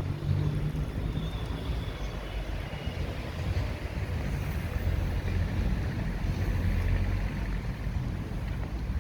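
Street traffic going by on a city avenue, with a steady low rumble of wind on the microphone.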